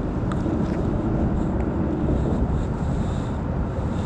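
Steady wind buffeting the microphone, a low rumbling rush with no clear pitch, with a couple of faint ticks in it.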